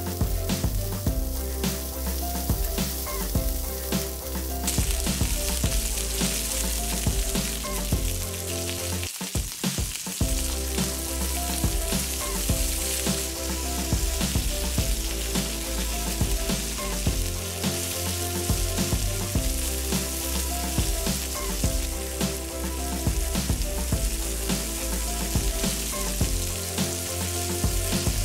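Chicken wings shallow-frying in oil in a wok, a steady sizzle, under background music with a bass line.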